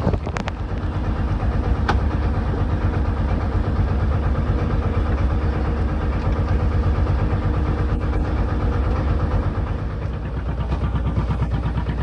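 An engine running steadily, a low even drone with a fast regular pulse that eases slightly about ten seconds in.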